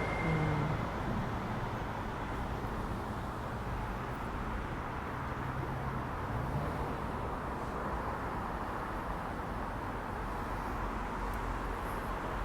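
Steady rush of road traffic, with a vehicle's engine note rising briefly about six seconds in.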